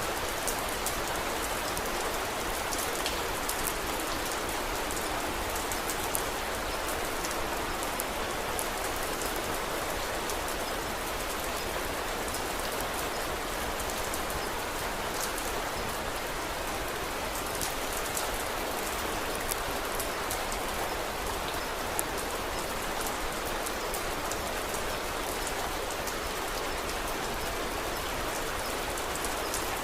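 Steady rain falling on a surface, an even hiss with scattered small sharp clicks throughout.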